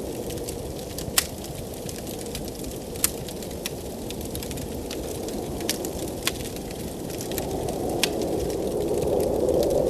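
Blizzard wind blowing steadily, with a wood fire crackling and sharp pops of burning logs about 1 and 3 seconds in and a few more later. The wind swells near the end.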